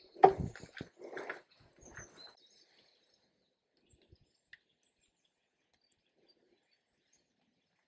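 A few short, irregular sounds in the first two seconds, the first the loudest, then near quiet with faint, scattered bird chirps.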